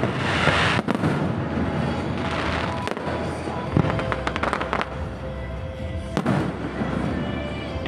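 Aerial fireworks display: a string of shell bursts, each a sharp boom, with a quick run of crackling about two and a half seconds in. Music plays in the background.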